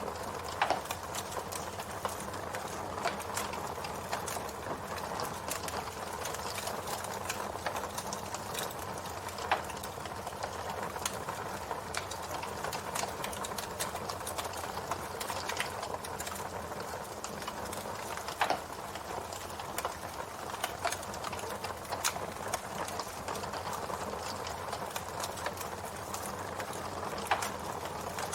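Campfire burning with steady, dense crackling and a few louder pops.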